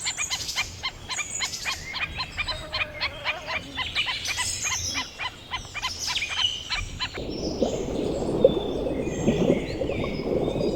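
A fast, even run of short, sharp animal calls, about three or four a second. About seven seconds in it gives way abruptly to a busier mix of chirps over a rough, noisy background.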